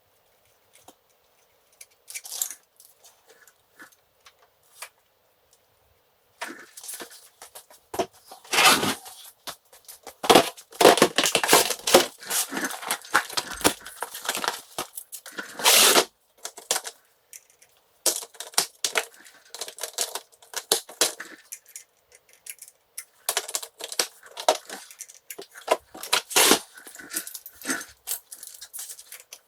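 Hands-on clutch disassembly on a 1955 BSA B33: an irregular run of clicks, scrapes and rattles of tools and small metal parts, sparse at first and then busy from about six seconds in, with short pauses.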